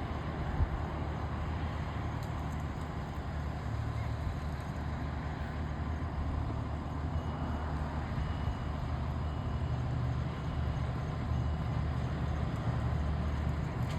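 Fire truck's diesel engine running steadily with a low rumble. In the second half, a faint short high beep repeats about once a second.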